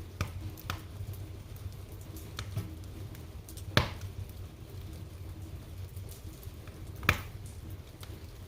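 Wood fire in a fireplace crackling over a steady low rumble, with scattered sharp pops; the two loudest come about four and seven seconds in.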